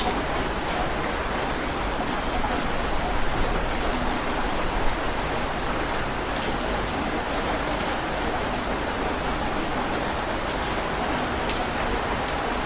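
Heavy rain falling steadily: a dense, even hiss with scattered sharper drop taps.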